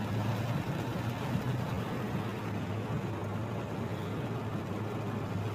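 Steady low engine hum under a continuous rushing noise, as of a motor vehicle running.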